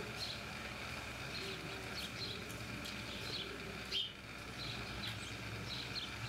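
Small birds chirping now and then, short high chirps about once or twice a second, over a steady faint electronic hum. A sharp click about four seconds in.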